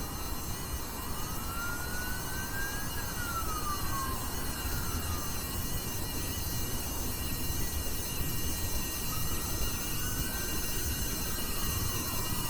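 Faint siren wailing in two slow rises and falls over a steady background of hiss and hum.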